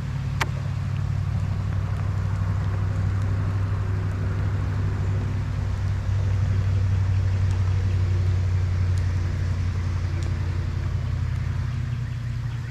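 Boat motor running steadily with a low hum, a little louder about halfway through and easing off near the end.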